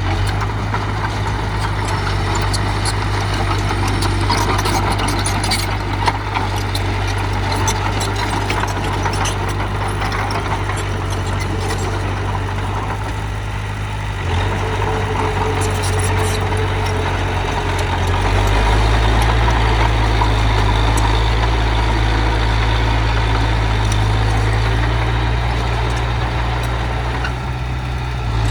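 Heavy diesel engine of a construction machine running steadily with a low drone, which grows louder about eighteen seconds in, with scattered light clicks and clanks over it.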